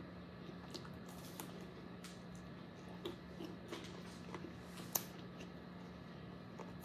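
Faint eating sounds: soft, scattered mouth clicks and smacks while chewing chicken wings, the sharpest about five seconds in, over a low steady hum.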